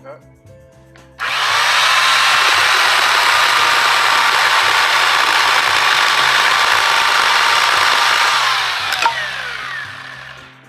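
GreenWorks 10-inch 6-amp corded electric chainsaw motor and chain starting suddenly and running at a steady whine for about seven seconds, then released and winding down, its pitch falling. There is one sharp click as it slows.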